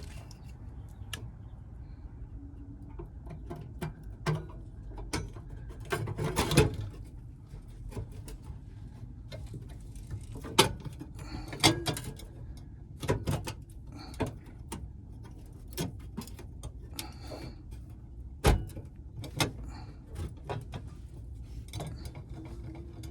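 Irregular metallic clicks, clanks and knocks of clamps and a sheet-metal floor pan being handled and clamped into place, with several sharper knocks scattered among lighter clicks.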